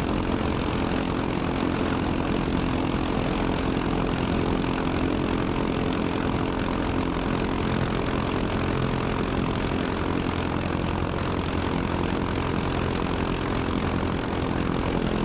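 UL Power 350i four-cylinder aircraft engine and propeller running steadily at idle on the ground, an even drone that does not change in pitch or level.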